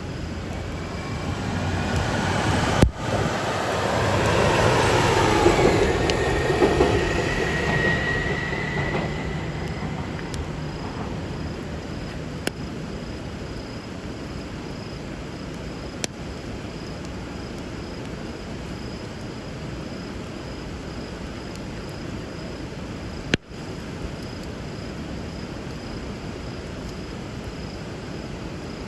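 Steady noise of river water and a crackling bonfire, with a few sharp pops. From about a second in, a passing vehicle swells up with a falling whine, is loudest around five seconds, and fades away by about ten seconds.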